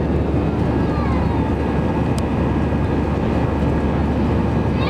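Steady engine and airflow noise of an Airbus A321 heard from inside the passenger cabin, a dense even rumble with a low hum underneath.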